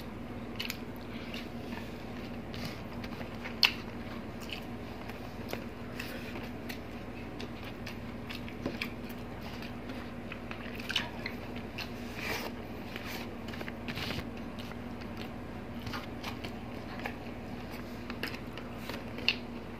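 Close-up eating sounds of two people chewing and biting rice, tocino and fried fish eaten by hand, with scattered short clicks and occasional crunches. The sharpest click comes about three and a half seconds in.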